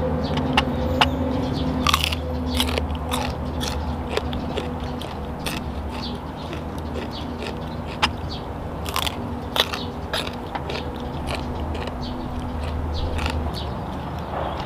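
Close-up crunchy biting and chewing of a raw Chinese kale stalk, with many sharp crunches scattered through, over a steady low hum.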